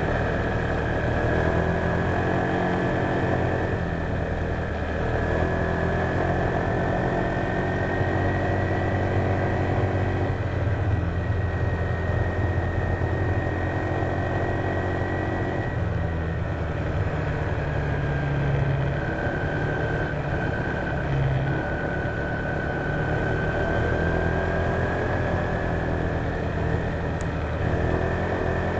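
Honda PCX150 scooter's single-cylinder four-stroke engine running steadily under way, with a high whine that drifts gently up and down in pitch; the engine note shifts about halfway through.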